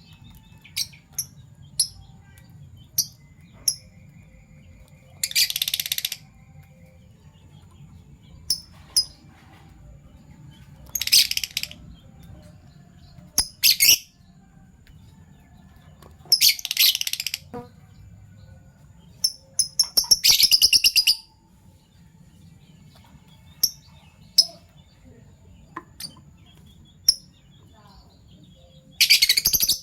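Fischer's lovebirds calling: short, sharp, high chirps scattered throughout, broken by about six harsh, shrill chattering bursts of a second or so each, the loudest and most rapidly pulsed about two-thirds of the way through. A faint low hum runs underneath.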